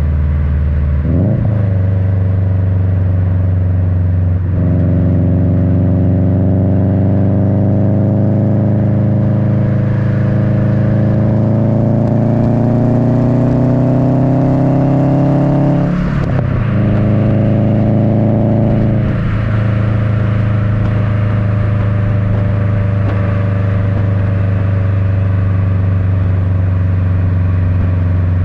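Subaru WRX's turbocharged EJ255 flat-four running through an Invidia N1 cat-back exhaust, recorded at the rear bumper, with the low, uneven boxer rumble. The engine note climbs slowly under throttle and breaks abruptly at each gear change: about a second in, about four seconds in, and around sixteen and nineteen seconds. After the last change it settles to a steady cruise.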